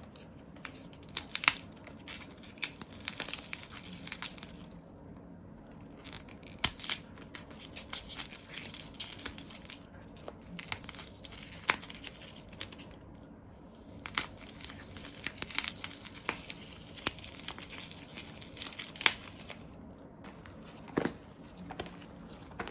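Slime being stretched, pressed and folded by hand, giving off dense crackling and popping in runs of a few seconds with short pauses between.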